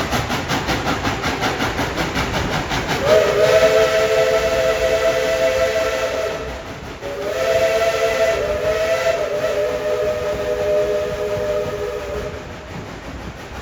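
Steam locomotive whistle sounding two blasts of a multi-tone chord, a shorter one about three seconds in and a longer one after a brief break, over the moving train's steady rhythmic running noise.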